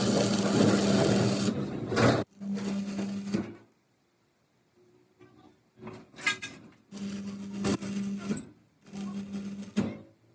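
A workshop machine or power tool running in bursts of one to two seconds with a steady hum, stopping and starting again several times.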